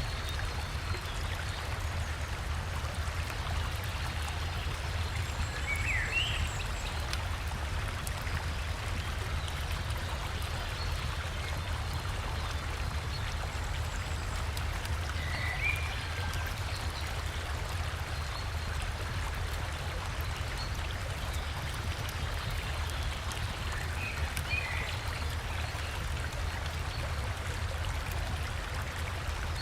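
River water flowing steadily, with a low rumble beneath the rush. A bird chirps briefly three times, roughly nine seconds apart.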